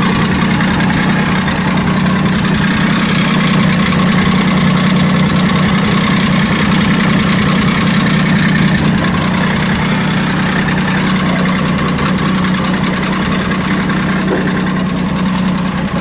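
Honda Beat's three-cylinder engine running steadily at idle after being reinstalled.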